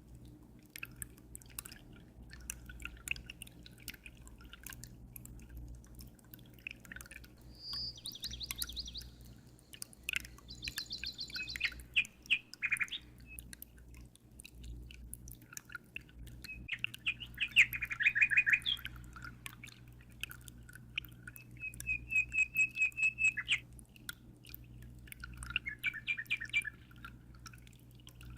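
Small birds chirping and trilling in short phrases every few seconds, over a steady patter of dripping water and a low hum.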